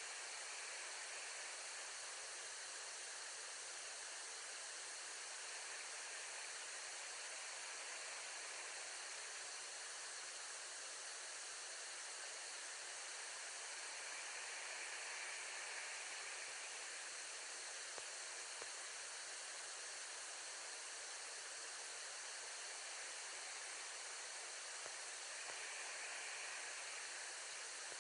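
Steady, even hiss of outdoor background noise with no distinct events, swelling slightly twice, about halfway through and near the end.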